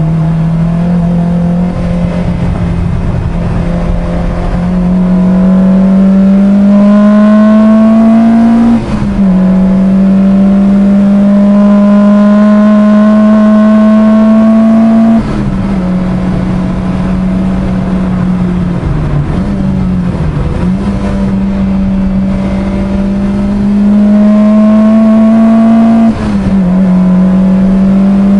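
A track car's engine heard from inside the cabin, running hard at high revs: its pitch climbs slowly in each gear and drops sharply with a short dip in loudness at three upshifts, about a third of the way in, about halfway and near the end. A brief wavering of the engine note a little after halfway marks a lift off the throttle.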